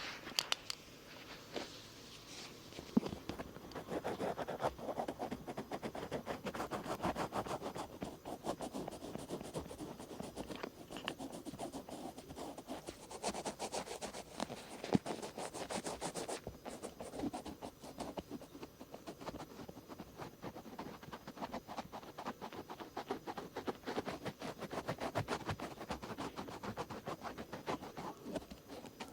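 Cotton swabs rubbing and scratching over the outer ear, in quick, continuous back-and-forth strokes, louder and brighter in stretches.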